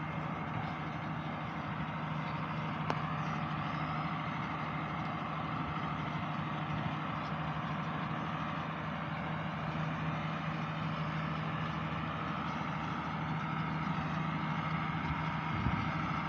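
Tractor engine running at a steady speed, an even drone that does not change.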